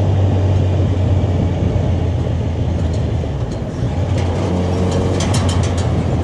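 Inline-four sport motorcycle engine running steadily at a constant engine speed, loud and close. A quick run of sharp clicks comes about five seconds in.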